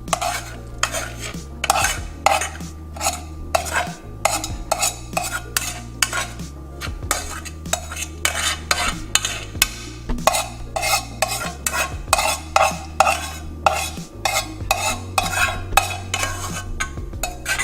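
A spoon repeatedly scraping and knocking against a pan as cooked quinoa is scooped out, about two to three strokes a second.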